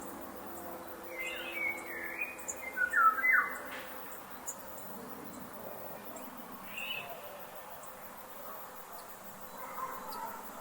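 Forest ambience with birds calling: a quick run of loud chirps about a second in, then fainter single calls later on, over a steady soft hiss.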